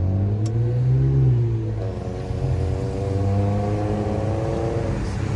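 Straight-piped Infiniti Q50 exhaust under hard acceleration. The pitch rises, changes about two seconds in, then keeps climbing slowly.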